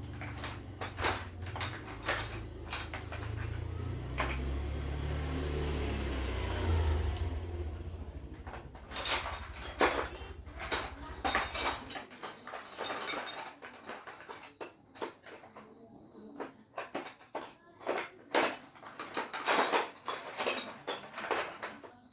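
Metal parts and hand tools clinking and knocking against each other during small-engine repair work. A low steady hum, like a motor, runs under the first half and cuts off suddenly about halfway through.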